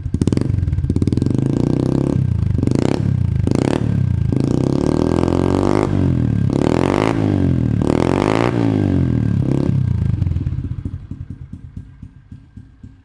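Honda CRF110 pit bike's small four-stroke single-cylinder engine with a Pro Circuit exhaust, revving up in repeated rising sweeps broken by short pauses. After about ten seconds it fades to a slower, uneven putter.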